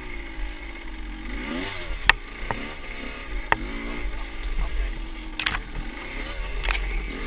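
Motorcycle engine running while riding, its pitch rising and falling again and again as the throttle opens and closes. Several sharp clicks or knocks cut through, over a steady low wind rumble on the microphone.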